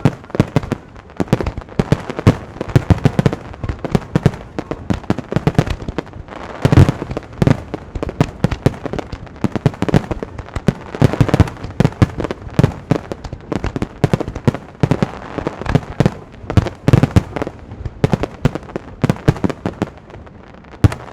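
Starmine fireworks barrage: aerial shells bursting in a rapid, continuous string of bangs and booms, several a second, with heavier booms about seven and eleven seconds in.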